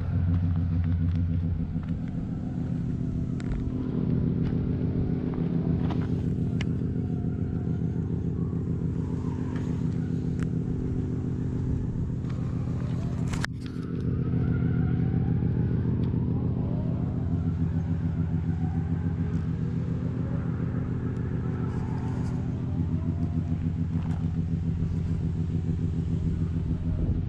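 Nissan Skyline R34 25GT Turbo's turbocharged 2.5-litre inline-six idling steadily, with a click and a brief dip about halfway through.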